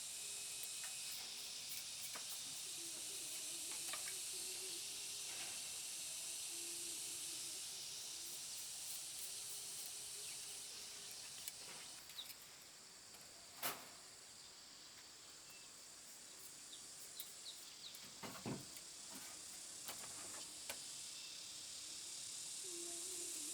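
Steady high-pitched hiss of an insect chorus, with scattered light clicks and knocks. The sharpest knock comes about 14 seconds in, and another about 18 seconds in.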